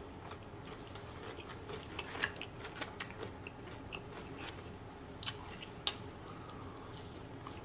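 Close-miked chewing of seasoned french fries, with scattered short sharp mouth clicks and crunches; the clearest come a little over two seconds in, at about three seconds, and twice between five and six seconds.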